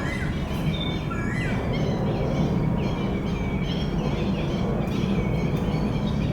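Birds chirping: many short, high calls repeating over and over, over a steady low rumble.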